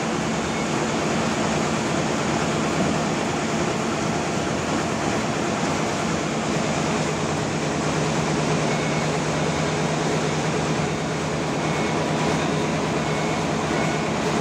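Bandsaw sawmill running steadily: a constant machine hum under an even hiss, with no break or change in level.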